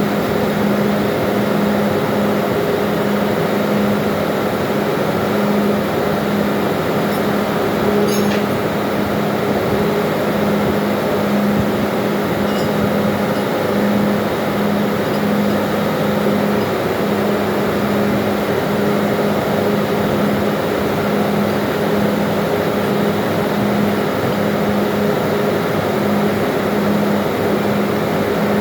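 Steady engine-room machinery noise with a low hum that swells and fades about once a second. A faint click about eight seconds in.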